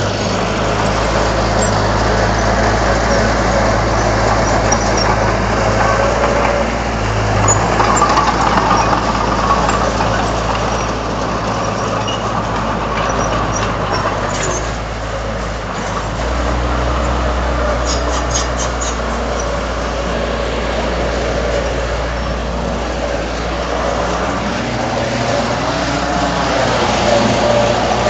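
Komatsu D31 bulldozer's diesel engine running steadily at work, its note changing about halfway through, with a quick run of light clicks shortly after.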